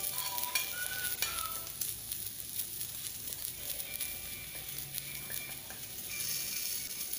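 Dal, rice and vegetables sizzling in the hot pressure cooker while a metal spoon stirs and taps in spice powder, with scattered light clinks.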